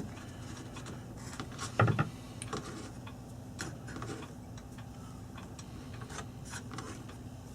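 Small clicks and taps of plastic and metal parts being handled as a quartz clock movement and its plug-in power adapter are fitted, with one louder knock about two seconds in. A faint steady low hum runs underneath.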